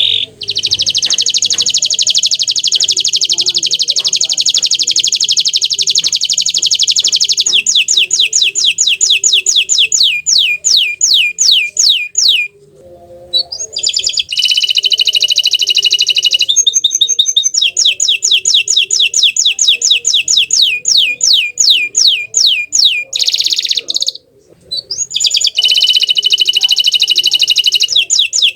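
Domestic canary (green 'bottle green' variety) singing in three long phrases with short pauses between. Each phrase opens with a fast buzzing roll and breaks into a run of quick downward-sweeping whistled notes, several a second.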